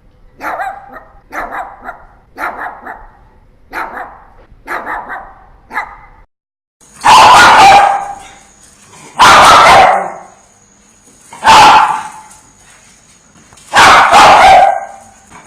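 Dogs barking, one recording after another. First a run of short barks, often in quick pairs. Then, after a brief silent break, a louder dog gives long single barks about two seconds apart, with a faint steady high tone behind them.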